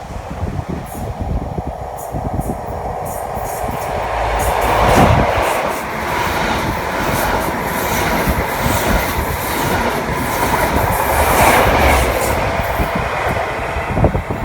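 A train passing close by: a loud rumble of wheels on the rails, building about four seconds in, with many sharp clicks over the top.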